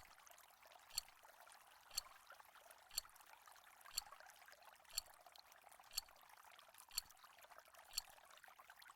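Countdown timer sound effect ticking, one short sharp tick each second, nine in all, over a faint steady hiss.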